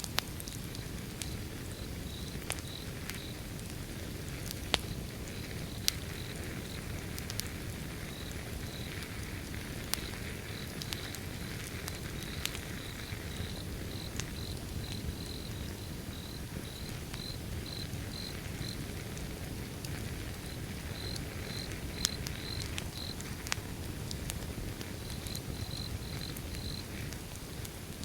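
Wood fire burning with a steady low rumble and irregular sharp crackles, a few of them louder pops. Crickets chirp alongside in runs of short, high, evenly spaced pulses.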